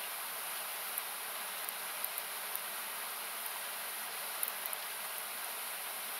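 Steady rushing of a river, heard as an even hiss, with a wood campfire crackling over it in short sharp pops about every second.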